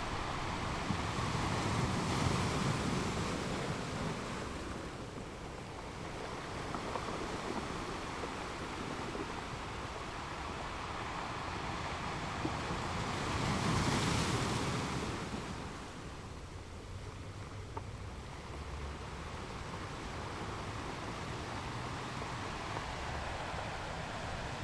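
Ocean waves washing onto a shore: a steady hiss of surf with two louder swells, one about two seconds in and a bigger one around the middle, each breaking and fading away.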